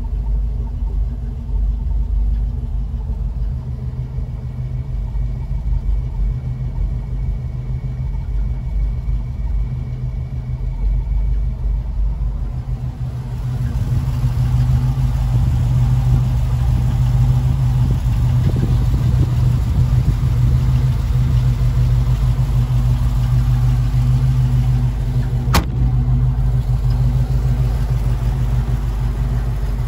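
1972 Jeep Commando's engine idling steadily, growing louder a little under halfway through. One sharp click near the end.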